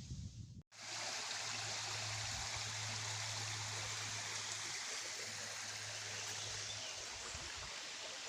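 Steady rush of flowing water, starting at a cut about a second in, with a low steady hum beneath it that fades out near the end.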